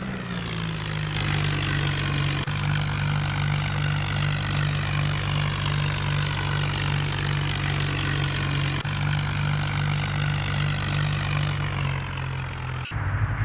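New Holland tractor's diesel engine running steadily under load, pulling two trolleys, with a short break in the sound near the end.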